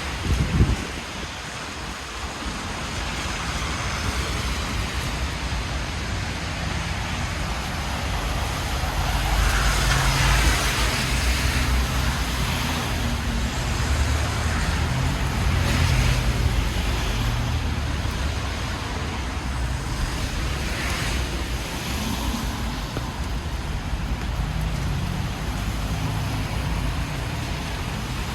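Street traffic in the rain: a steady hiss of tyres on wet road over low engine rumble, with cars swelling louder as they pass several times. A brief thump about half a second in.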